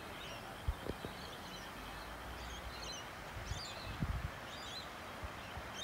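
Outdoor ambience: scattered bird chirps over a steady background hiss, with brief low thumps about a second in and again about four seconds in.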